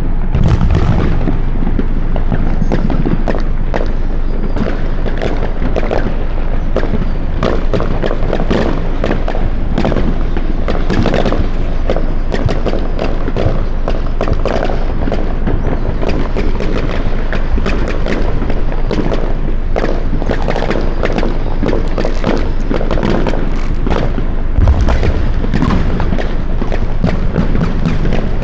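Dense, continuous barrage of consumer fireworks going off all around, many overlapping bangs and pops at varying distances. Heavier booms come about half a second in and again near the end.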